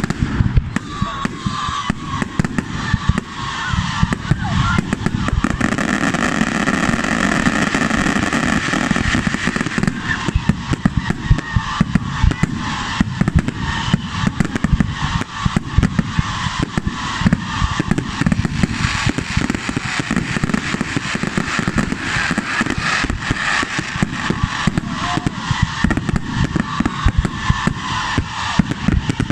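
Fireworks going off in a dense, continuous run of bangs and crackles over a steady hiss.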